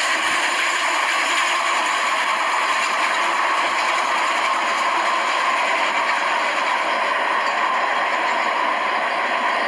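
Battery-powered toy train's small electric motor and plastic gears whirring steadily as it runs.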